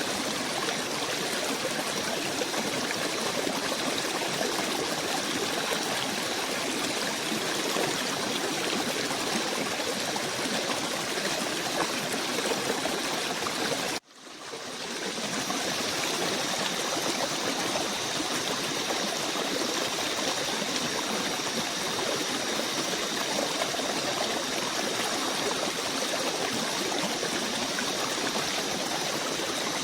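Steady running water, like a small stream. About halfway through it cuts out suddenly and fades back in, and after that faint steady high-pitched tones sit above the water.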